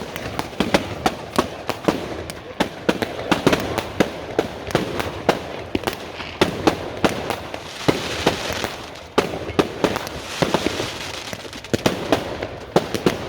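Fireworks going off continuously, a dense run of sharp bangs and cracks at irregular intervals, with stretches of crackling hiss.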